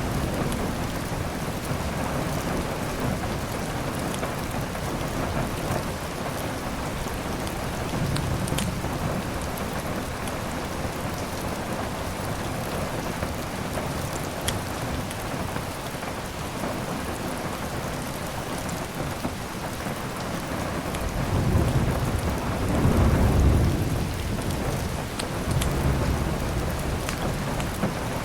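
Steady heavy rain with rolling thunder rumbles, the loudest rumble about three quarters of the way through. A few faint sharp crackles of a wood fire come through the rain.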